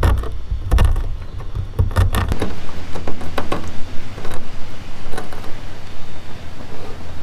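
Scattered knocks and clicks of camp cooking gear being handled, with a low rumble during the first couple of seconds.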